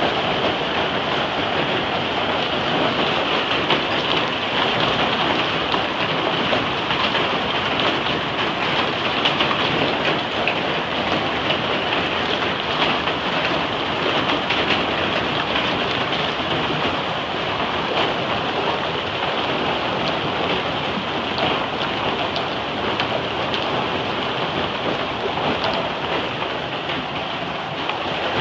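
Hail and heavy rain pelting a car, a dense, steady patter of many small hits throughout.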